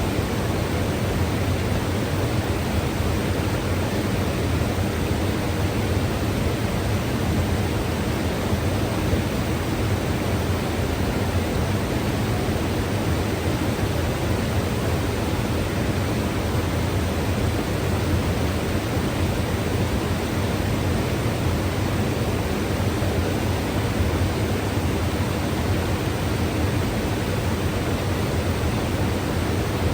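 Mountain river flowing: a steady, unbroken rush of water, heaviest in a low rumble, with no changes.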